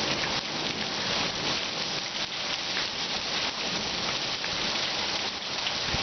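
Heavy monsoon rain pouring down: a steady, dense hiss of rain with a fine patter of drops.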